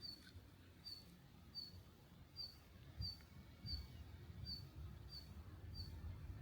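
A small bird calling: a short, high chirp repeated at an even pace about once every 0.7 s, over a faint low rumble.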